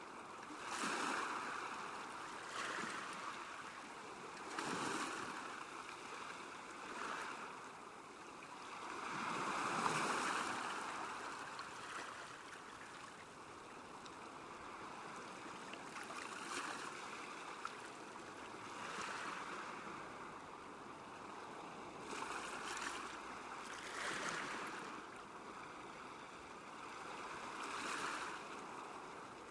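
Small waves lapping at a lakeshore, a steady wash of water that swells and falls back every few seconds, the biggest swell about ten seconds in.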